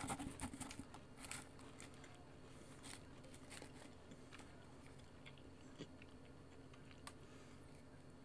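Quiet crunching of Pringles potato crisps being chewed, a cluster of crackles in the first second or two, then a few scattered soft clicks and taps as the cardboard Pringles can is handled.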